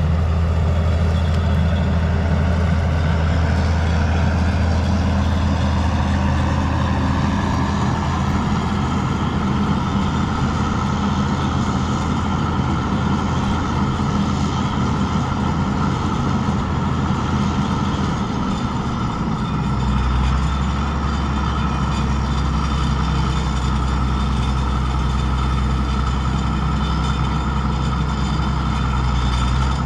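Gleaner L2 combine running steadily. Its low engine hum steps down in pitch about two-thirds of the way through.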